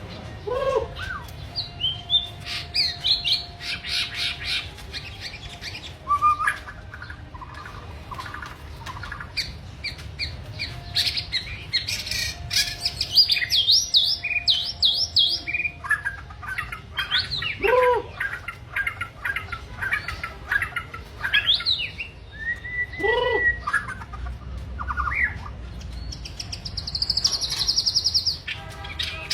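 Songbirds singing: bursts of quick, varied chirps and trills, with a few lower whistled notes that sweep down in pitch and a fast buzzy trill near the end.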